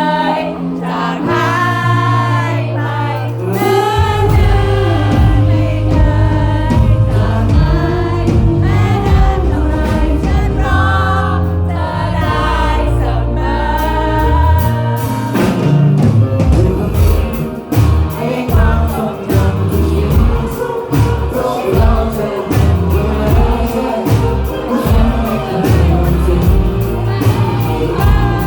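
Live band playing a song with sung vocals over bass and keys, many voices singing together. A steady drum beat kicks in about halfway through.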